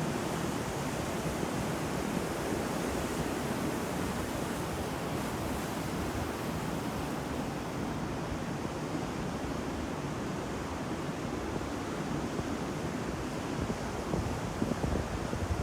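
Ocean surf: waves breaking and washing in a steady roar, with wind buffeting the microphone and a few louder gusts near the end.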